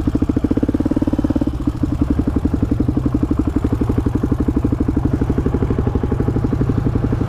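Polaris Predator quad's single-cylinder engine running at low revs with an even pulsing beat, easing off about a second and a half in.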